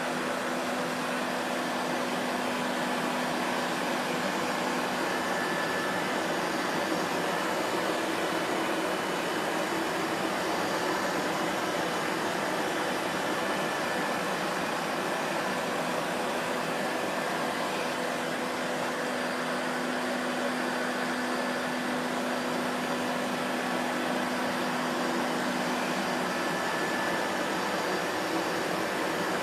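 Vacuum cleaner running continuously: a steady motor drone and airflow rush with a faint constant whine, unchanging in level.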